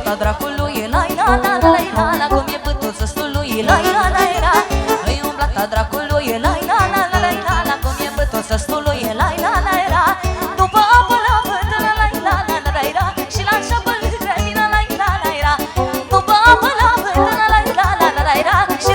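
Romanian party band music played live, with a steady, fast beat under a lively, ornamented melody line.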